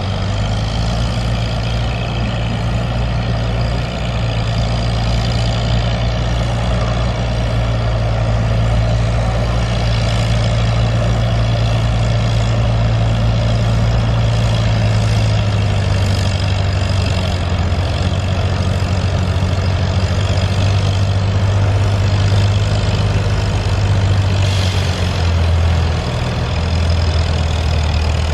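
Antique farm tractor engine running steadily under load while pulling the sled at a tractor pull, a low, even engine note. Its pitch drops about halfway through and again near the end.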